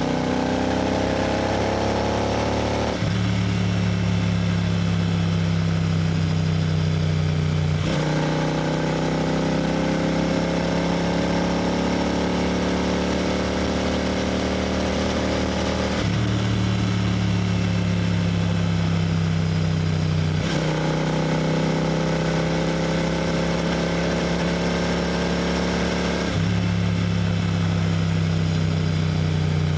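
Royal Enfield GT 650's 648 cc parallel-twin engine and exhaust running steadily at highway cruising speed, its pitch rising slowly at times. The note changes abruptly several times, about 3, 8, 16, 20 and 26 seconds in.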